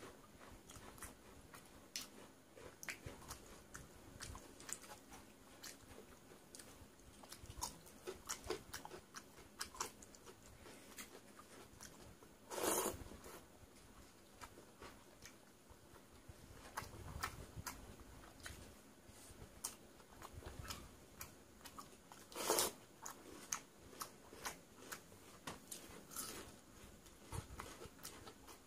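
Close-miked chewing and eating by hand: a steady run of wet mouth smacks and small crunches as a man eats soaked rice (panta bhat) with fried sides, with two louder half-second sounds about 13 and 22 seconds in.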